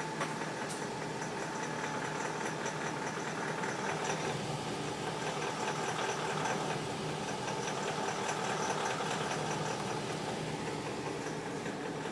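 BMW X5 4.8is's 4.8-litre V8 engine running steadily, most likely at idle, with a fast, even ticking noise.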